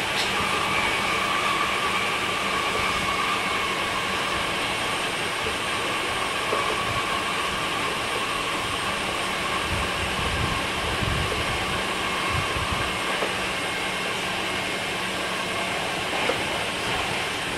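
Meitetsu 5000 series electric train, which rides on running gear taken from the 1000 series, heard from on board while running between stations. There is a steady rumble of wheels on rail and a whine from the traction equipment that fades away about two-thirds of the way through, with a few low thumps under it.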